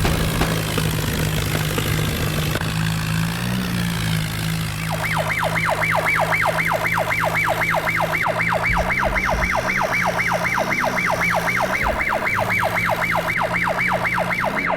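An electronic siren warbling rapidly up and down, about three sweeps a second, starting about five seconds in, over an engine running steadily.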